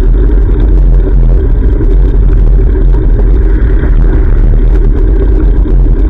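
Steady, loud low rumble of wind buffeting a GoPro camera's microphone on a moving bicycle, with no single distinct event.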